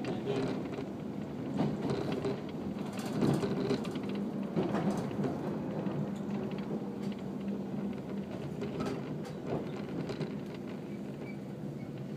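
Inside a JR 115-series electric train running on the rails as it approaches a station: a steady low hum with scattered clicks and rattles.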